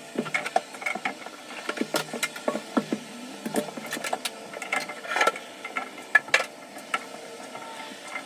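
Irregular series of sharp mechanical clicks and clinks, many of them close together, as of tools or metal parts being handled.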